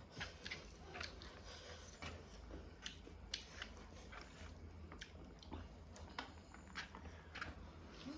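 A person chewing a mouthful of rice and egg curry close to the microphone: faint, irregular wet clicks and smacks of the mouth, several a second.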